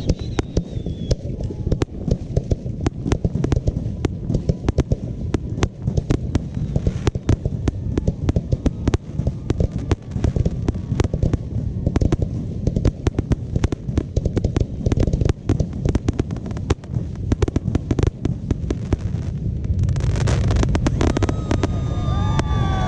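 Fireworks going off in a dense, rapid barrage of bangs and crackles. The barrage grows heavier and denser about twenty seconds in.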